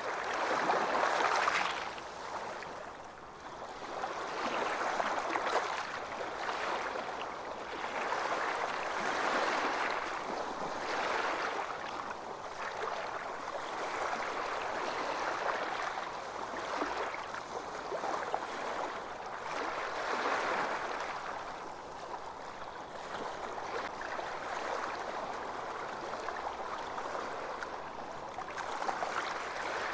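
Ocean waves washing onto a beach, the surf swelling and ebbing every few seconds.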